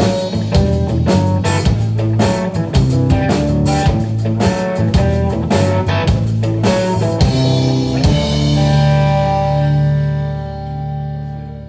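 Live blues band playing the closing bars on electric guitar, bass and drum kit, with dense drum hits, then a final chord about eight seconds in that rings and fades out.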